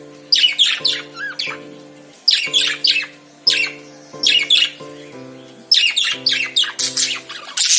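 Lovebirds chattering in about four bursts of rapid, sharp squawks, over soft background music.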